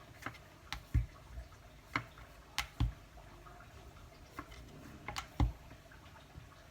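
Rolling pin rolling a small ball of dough out into a thin puri, with irregular light clicks and knocks and about three dull low thumps.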